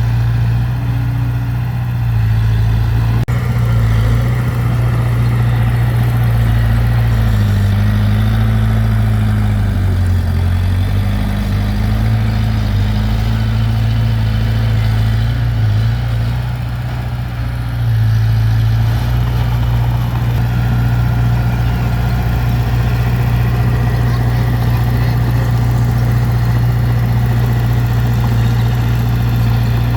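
Heavy diesel engine of earthmoving machinery running steadily, its pitch wavering under changing load about a third of the way in and easing off briefly a little past halfway.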